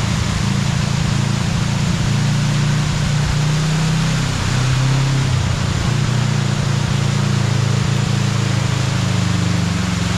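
Rain-swollen waterfall rushing hard, a loud steady hiss of falling water. Beneath it the Kawasaki KRX side-by-side's parallel-twin engine idles with a low hum that wavers briefly about four seconds in.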